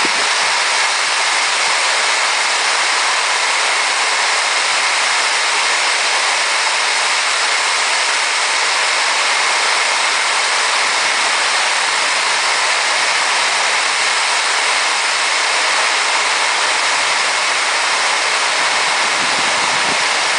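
Heavy rain pouring on a houseboat's tin roof: a loud, steady hiss of rain that keeps on without a break.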